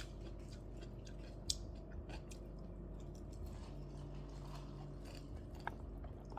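A person chewing food, with a few scattered light clicks and one sharper click about a second and a half in.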